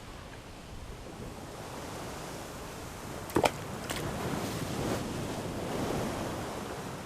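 Sea surf washing steadily, with two short sharp sounds half a second apart about three and a half seconds in.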